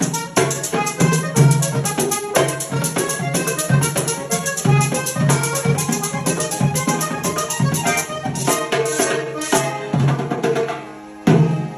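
Vallenato music: a caja drum beating a steady pattern under a button accordion, with a rattling scraped percussion on top. Near the end the playing thins out and closes on one last accented hit.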